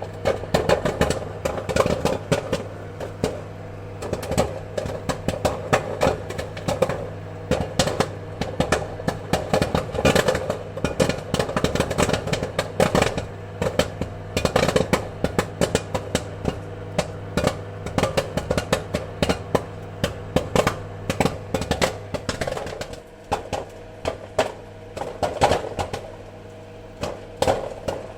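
Popcorn kernels popping in quick, irregular pops, at times crowding together, over a steady low hum that drops away about three quarters of the way through.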